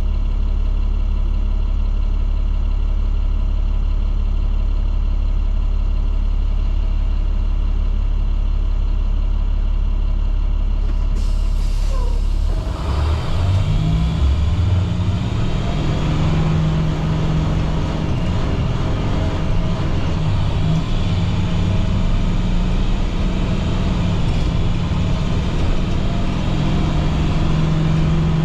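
Inside a school bus under way: the MaxxForce DT inline-six diesel running with road and cabin rumble. For the first twelve seconds or so the sound is muffled to a steady deep rumble. About twelve seconds in it opens up into clearer engine tones that rise and fall with the road noise.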